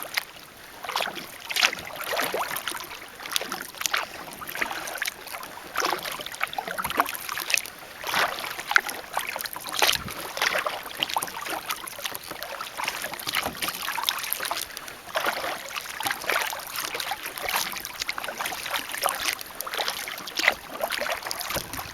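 Kayak paddle dipping into calm water stroke after stroke, with splashes and drips from the blades.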